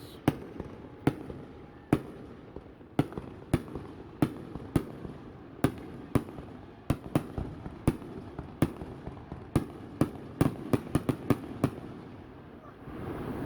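Fireworks show: a string of sharp bangs at irregular intervals, about two a second, with a quick flurry of them about ten to eleven seconds in. The bangs stop near the end.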